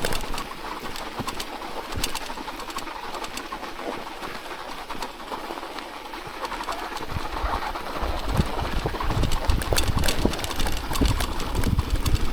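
Riding sounds picked up by a chest-mounted action camera on a bicycle in a snowstorm: scattered clicks and crunches over a noisy hiss, with a low, gusty rumble of wind on the microphone that grows stronger about halfway through.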